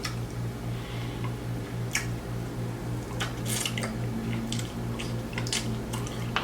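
Close-miked chewing of crispy fried food: wet, squishy mouth sounds with short crunches at irregular intervals, over a steady low hum.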